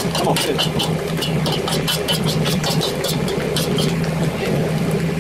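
Corn kernels frying in butter in a hot steel wok: steady sizzling with many sharp crackles, and a metal spoon scraping and clinking against the pan as the corn is stirred. A steady low hum runs underneath.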